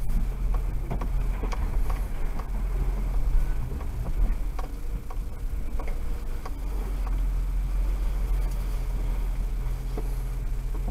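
Steady low hum of a car's engine and road noise heard from inside the cabin while driving, with scattered small clicks and rattles.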